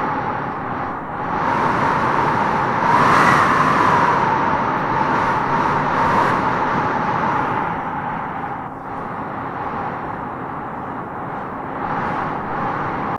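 Howling wind gusting through trees: a steady rush with a whistling howl that rises in pitch as a gust swells about three seconds in, then eases into a steadier, slightly quieter blow.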